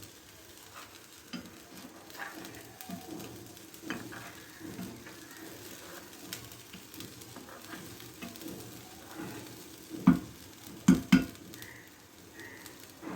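Spatula stirring and scraping a watery spice and peanut paste in a cooking pan over the heat, with a soft sizzle and light clicks. About ten seconds in come three loud knocks close together.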